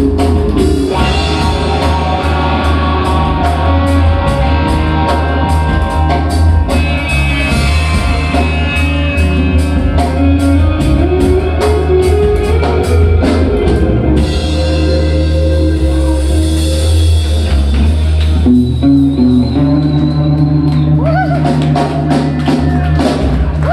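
A rock band playing live with electric guitar, bass and a drum kit. Steady drum hits run through the first half, then give way to ringing cymbals and held notes.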